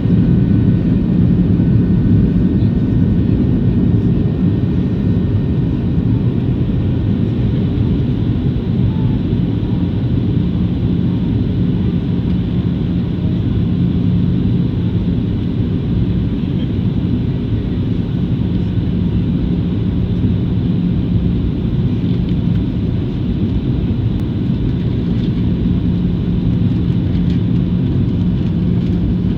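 Steady cabin noise inside a Boeing 737-700 in flight: the drone of its CFM56-7 engines and rushing air, with a low steady hum.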